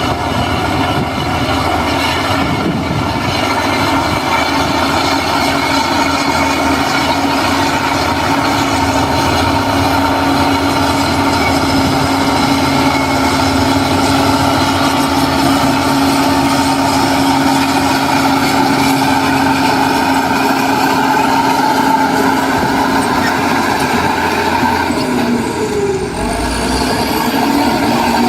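Heavy diesel engine of an earthmoving machine running steadily under load, with a brief dip and change in the engine note near the end.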